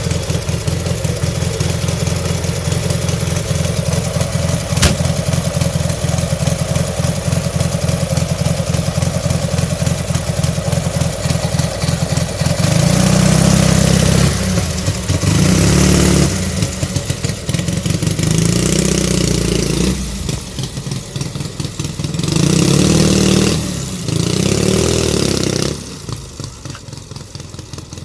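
Dnepr flat-twin motorcycle engine of a homemade Ural trike idling steadily, then revved up in five short bursts over the second half, settling back to a quieter idle near the end.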